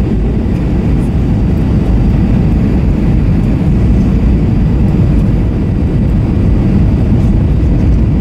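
Steady low rumble of cabin noise inside an Airbus A321-232 airliner: jet engine and airflow noise.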